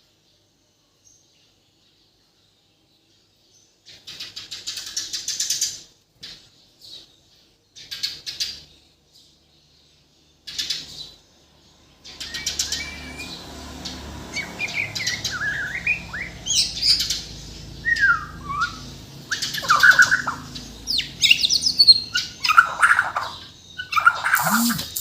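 Bornean murai batu (white-rumped shama) singing. After a few quiet seconds come short bursts of rapid chattering, then from about halfway a continuous run of varied song with rising and falling whistles, loudest near the end, over a low background rumble.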